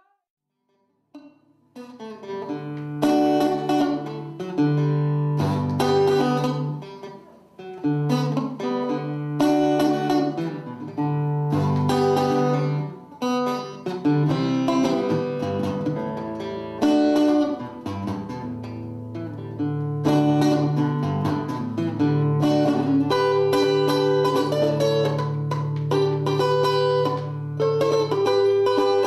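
Plucked string instrument playing a melody with chords over a held bass line, starting after a brief silence of about a second and a half.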